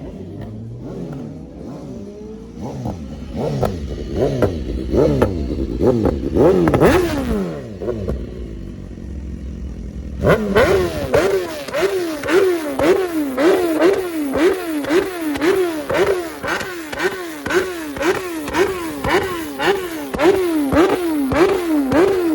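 Vehicle engines revving: irregular rises and falls in pitch at first, then from about halfway a quick, regular rev up and down about twice a second.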